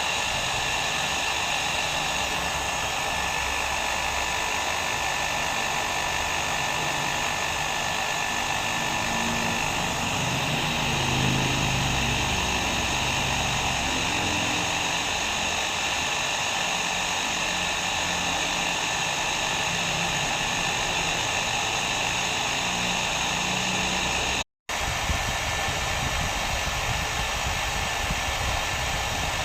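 Hair dryer blowing steadily, a continuous whooshing air noise with a faint whine. It cuts out for an instant about three-quarters of the way through, then carries on unchanged.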